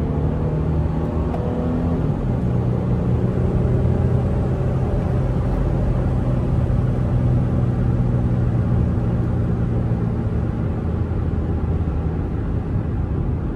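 Infiniti car's engine and exhaust droning steadily while cruising, heard from inside the cabin over road rumble. The pitch steps down slightly about two seconds in.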